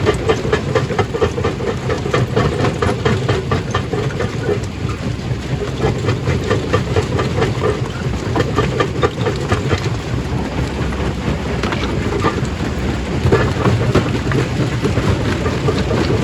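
Stone crushing machine running with a steady low hum, rocks clattering and knocking inside it in a dense, irregular stream.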